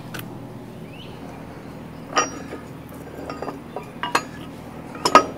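Steel parts knocking together: a few sharp metallic clinks with a short ring, spaced a second or two apart, the last ones as a quick double clink.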